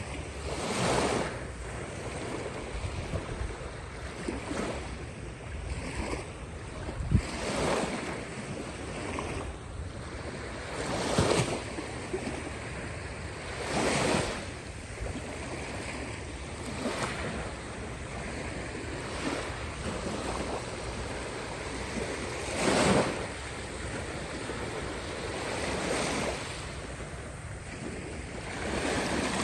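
Caspian Sea waves breaking and washing on the shore, a louder surge every few seconds over a steady rush of water, with wind rumbling on the microphone.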